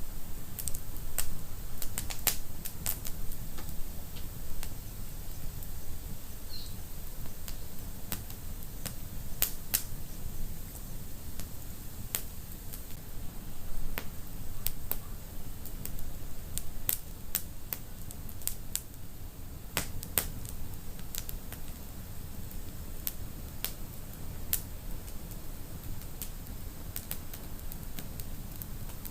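Wood fire burning in a fireplace, with irregular sharp crackles and pops over a steady low rumble of flames.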